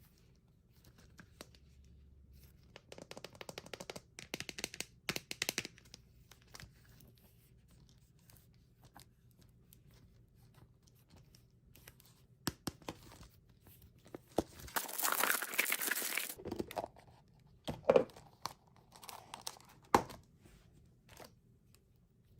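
Candy wrappers being handled and torn open: bouts of crinkling, one loud tear about fifteen seconds in, and a couple of sharp clicks near the end.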